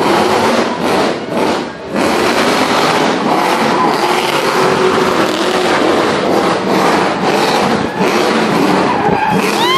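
V8 Supercar racing engines running loud at full throttle as the cars race past, with a brief dip about a second and a half in.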